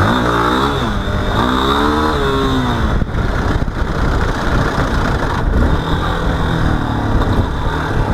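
Motorcycle engine running with a low rumble, revved up and back down a few times, near the start and again later.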